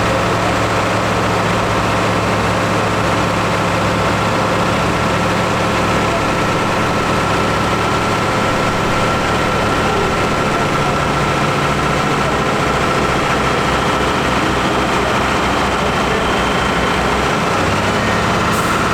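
New Holland T7 170 tractor's diesel engine running at a steady speed on a PTO dynamometer, with a steady whine over the engine note.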